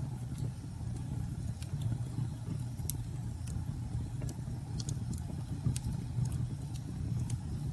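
Wood fire crackling with scattered sharp pops over a steady low rumble.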